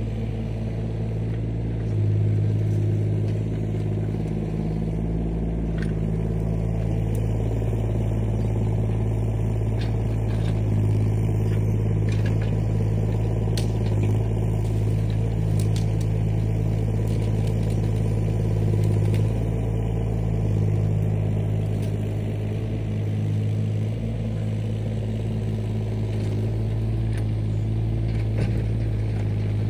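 Diesel engine of a piece of land-clearing machinery running steadily at a constant speed, with a few light clanks mixed in.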